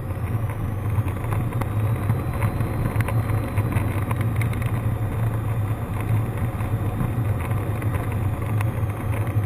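Cessna 152's four-cylinder Lycoming O-235 engine droning steadily in the cockpit, with a low, even hum and no change in power.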